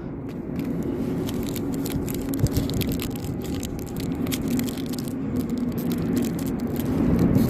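Trading card box and foil card packs being handled, with irregular crinkling, scraping and rattling, over a steady low hum.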